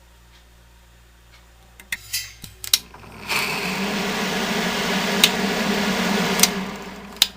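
Clicks, then the 1970 Triangle Mobile Home Products bathroom exhaust fan's motor running for about three seconds with a rough, rattling hum that builds slightly, then a click and the sound winding down. The rattle on starting comes from worn bearings that were run dry for years.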